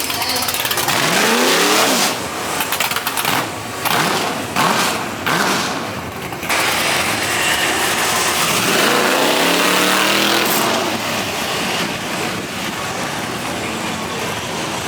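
Car engine revving, its pitch rising twice: once about a second in and again around the middle, over a loud rushing noise.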